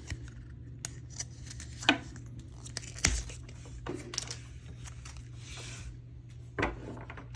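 Cellophane wrapping being torn and crinkled off a boxed deck of cards, with scattered clicks and knocks as the box and cards are handled, over a steady low hum.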